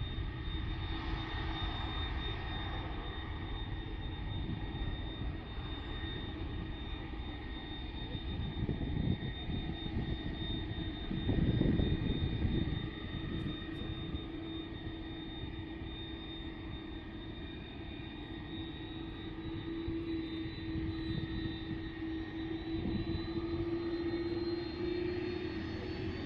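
Jet airliner engines running with a steady high whine over a low rumble, swelling louder about eleven seconds in; near the end the whine tones rise slightly in pitch.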